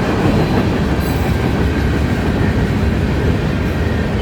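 Freight train cars rolling past close by: a loud, steady rumble of wheels on the rails.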